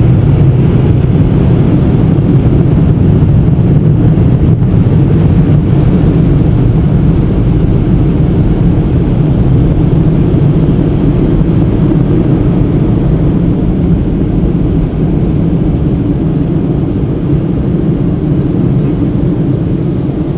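Steady, loud low rumble heard from inside a car, easing off slightly near the end.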